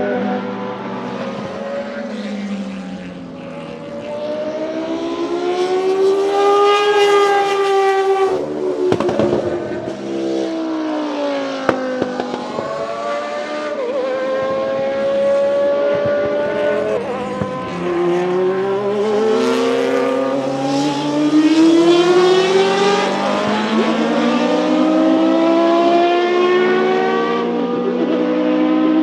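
Historic Group C prototype race cars passing at speed, engines revving up through the gears. The engine pitch climbs and then drops sharply at each gear change, several times over, with more than one car heard at once.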